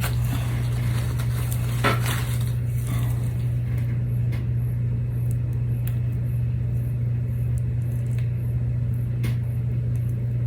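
Steady low hum throughout, with a few faint clicks and scrapes of a small tool picking at cured UV-resin dots on a resin piece, the clearest about two seconds in.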